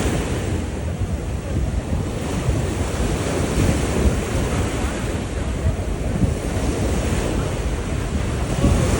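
Wind buffeting the microphone over a steady, even rushing noise with no distinct engine tone.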